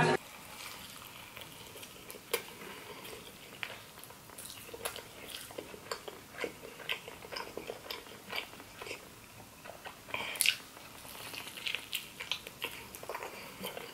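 Close-miked eating of a cheese-dipped burger: irregular chewing and biting clicks and smacks, with sharper bites about two seconds and ten seconds in.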